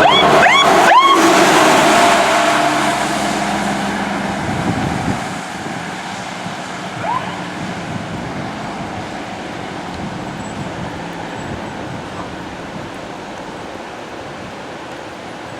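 Fire truck passing with its siren giving three quick rising whoops in the first second, over a loud steady tone and engine noise. The truck's noise then fades steadily as it moves away, leaving a lower background of traffic.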